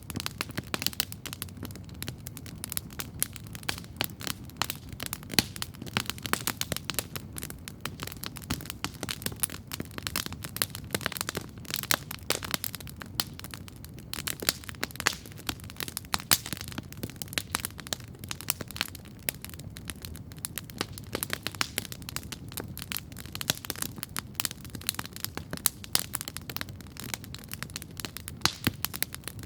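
Wood campfire crackling steadily, with dense irregular pops and snaps over a low steady rumble of the flames.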